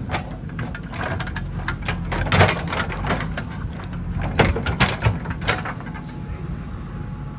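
A JCB 3DX backhoe loader's diesel engine runs steadily under a string of sharp knocks, clanks and scrapes from the digging gear working soil. A faint steady whine comes in near the end.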